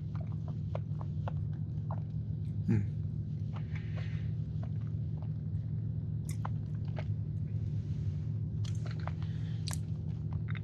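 Close-up mouth sounds of a person chewing a bite of cookies and cream cheesecake: small wet clicks and smacks scattered irregularly, with a brief low hum of the voice about three seconds in, over a steady low background hum.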